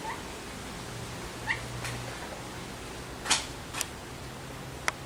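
Alexandrine parakeet giving about five short, sharp calls spread over a few seconds, the loudest just past the middle, over a faint low hum.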